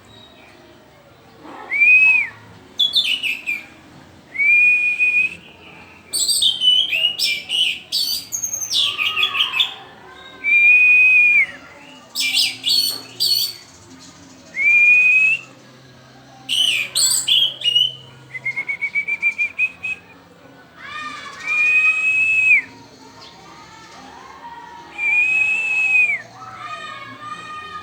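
Orange-headed thrush singing: about six clear, drawn-out whistled notes, each rising and falling slightly, alternating with fast, high, chattering phrases.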